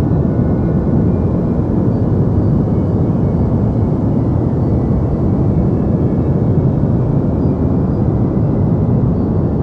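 Deep white noise for sleep: a steady, unchanging rush of noise, heaviest in the low range and dull in the highs.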